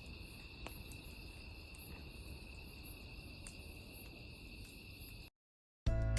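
Crickets chirping in a steady high-pitched chorus that cuts off suddenly about five seconds in; music starts just before the end.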